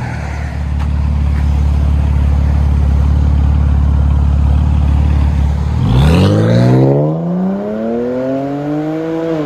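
BMW 128i's inline-six through a dual exhaust with Cherry Bomb glass packs, heard from inside the cabin: a steady low drone at part throttle, then about six seconds in a hard acceleration, its pitch rising steadily to the end.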